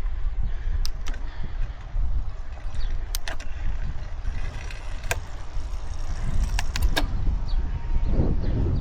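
Wind rumbling on the microphone with road noise from a moving bicycle, broken by a few sharp clicks.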